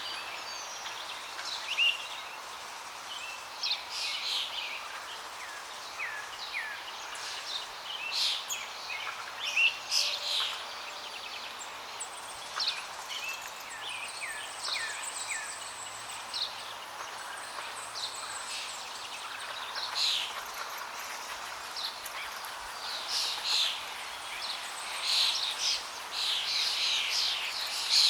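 Several songbirds chirping and calling over a steady rush of flowing water, with frequent short chirps and quick down-slurred notes.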